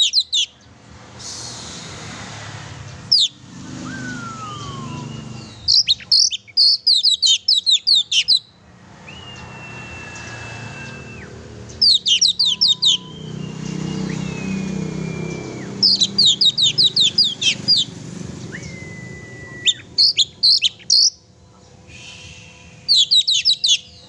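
Oriental magpie-robin (kacer) singing vigorously: repeated short phrases of rapid, high chattering notes about every three to four seconds, alternating with long clear whistles, some held level before dropping and one sliding down. A low rumble of background noise fills the gaps between phrases.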